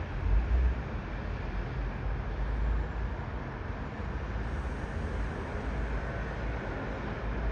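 Steady outdoor background rumble with uneven low buffeting, loudest about half a second in.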